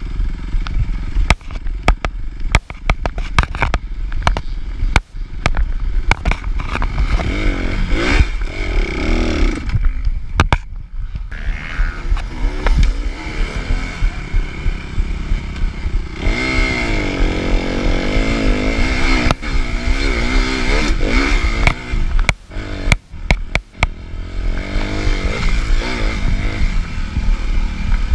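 Suzuki RM-Z250 single-cylinder four-stroke motocross engine, heard from onboard, revving up and down hard as it is ridden. The throttle is shut off briefly twice, and sharp knocks and clatter from the bike over rough ground run through it.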